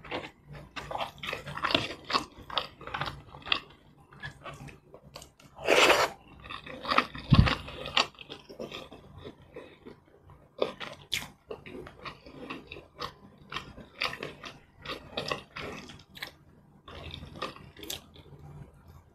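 Close-miked eating sounds: chewing, biting and lip smacks with many short wet clicks as rice and curry are eaten by hand. There is a louder noise lasting about half a second around six seconds in, and a sharp low thump just after.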